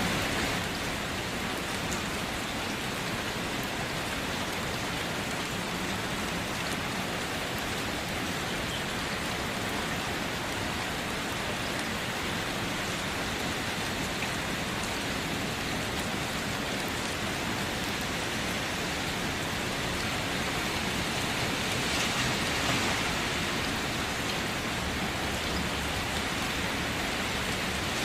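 Steady rain falling on a surface, an even hiss with a slight swell about three quarters of the way through.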